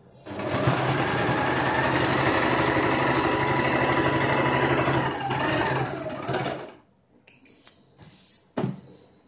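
Sewing machine running steadily, stitching a pleat into the blouse fabric, then stopping a little before the end. Several light clicks and rustles of cloth being handled follow.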